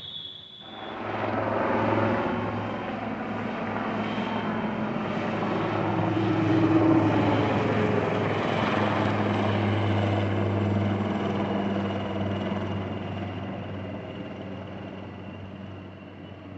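A motor vehicle's engine passing by: it grows louder over several seconds, is loudest about halfway, then slowly fades away.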